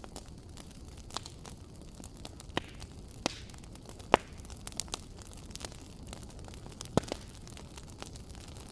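Wood fire burning in a fireplace: a low steady rumble of flames with scattered sharp crackles and pops, the loudest about four seconds in and again about seven seconds in.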